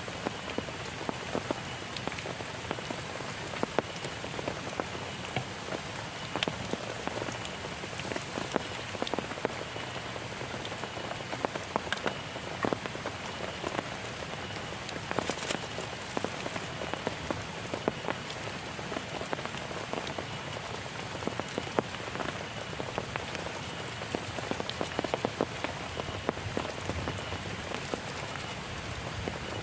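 Heavy rain falling steadily, with many individual drops hitting close by as sharp taps over the constant hiss.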